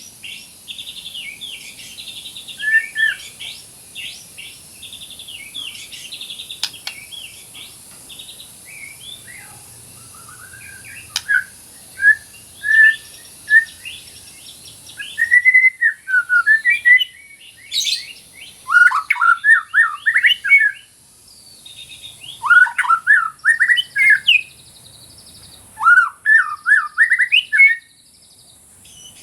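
White-rumped shama (murai batu) singing a long, varied song of rapid chirps and whistled phrases. The song turns louder and more forceful about halfway through, with sharp sweeping notes. A steady high hiss lies behind the first half.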